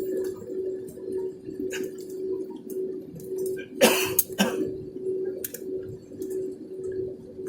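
Steady hum inside an airliner cabin after landing, with scattered small clicks and two sharp, loud noises close together about four seconds in.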